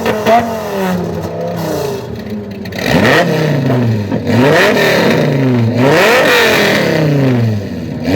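Dodge Viper V10 engine revved. The pitch falls away in the first second, then from about three seconds in the throttle is blipped three times, each rev climbing quickly and sinking back more slowly.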